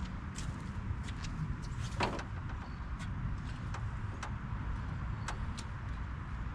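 Light metallic clicks and knocks from hand work on the truck's fuel line fittings, with one louder knock about two seconds in, over a steady low rumble.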